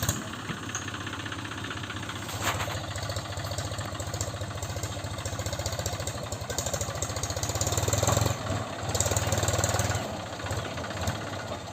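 Tractor diesel engine running steadily, revved up about eight seconds in and again from about nine to ten seconds, then settling back.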